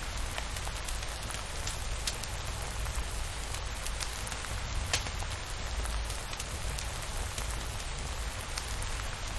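Steady rain falling, with scattered sharp crackles from a wood fire and one louder crack about five seconds in.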